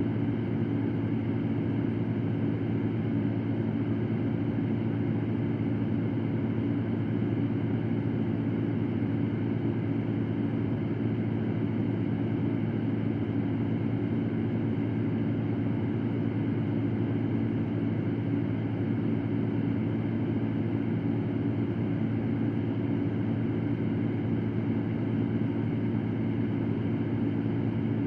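Electric fan running steadily: an even rush of air with a low hum underneath, unchanging throughout.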